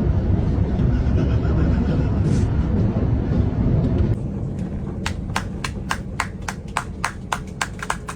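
Steady low rumble of airliner cabin noise. About four seconds in it drops abruptly and quietens, and a quick run of sharp clicks, about three or four a second, begins.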